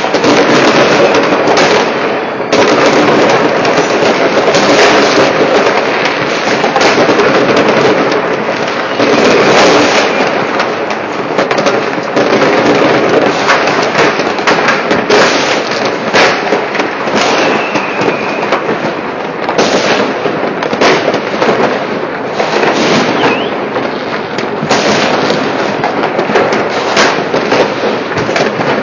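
Many fireworks and firecrackers going off at once: a dense, unbroken barrage of overlapping bangs and crackling.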